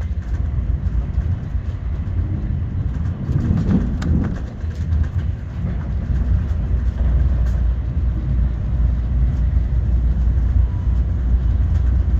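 Saudi Railway Organization train running, a steady low rumble with a brief swell a little before four seconds in.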